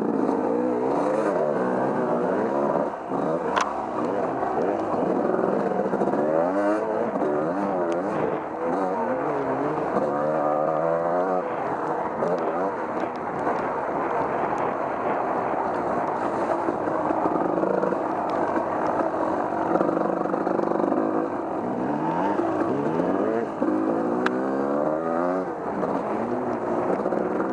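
Off-road vehicle engine running under a rider's throttle, its pitch rising and falling over and over as it revs up and eases off along a muddy trail.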